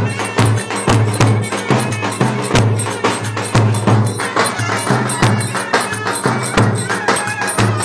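Live Turkish wedding dance music: clarinets playing over a steady drum beat of about two strokes a second, with sharp jingling percussion strokes.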